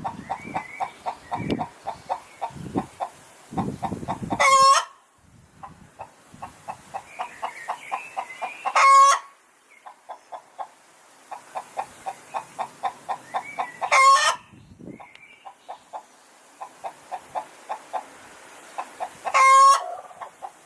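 Hen's egg-laying cackle: runs of quick clucks, about four a second, each ending in a loud drawn-out squawk, repeated four times about every five seconds.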